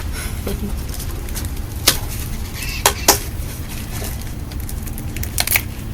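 Small items handled during planting, making a few sharp clicks and taps. One comes about two seconds in, two come close together near three seconds, and a couple more come near the end, all over a steady low background rumble.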